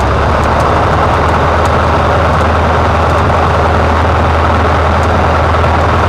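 Cessna 150's four-cylinder Continental O-200 engine and propeller running steadily, heard loud inside the cockpit as a constant low drone under a wash of airflow noise.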